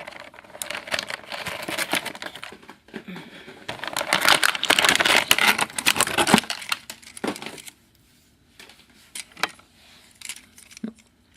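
Plastic toy packaging rustling and crackling as it is handled, with many sharp clicks, loudest about four to six seconds in, then a few light scattered clicks and taps of plastic.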